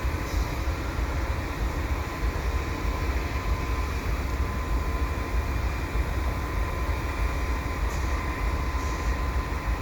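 Two GE AC4400CWM diesel-electric locomotives idling while the train stands waiting: a steady low engine rumble with a thin, constant whine above it.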